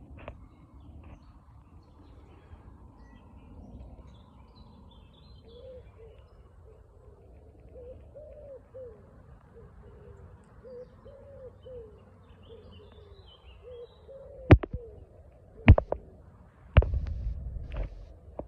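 A bird's low cooing call, repeated in short phrases for several seconds, with faint higher chirps of small birds. Near the end come three sharp, loud knocks and a brief rumbling noise.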